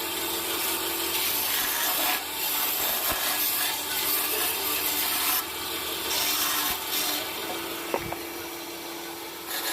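Wood being sanded: a steady rubbing hiss in long passes of one to three seconds.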